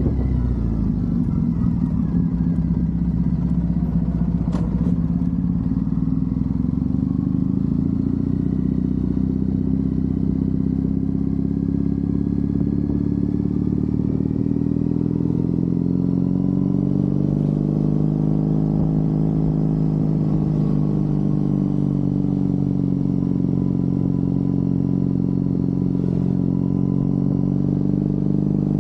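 Triumph Bonneville's parallel-twin engine running on the road, its pitch easing down and rising again a few times with the throttle. A brief sharp click about four and a half seconds in.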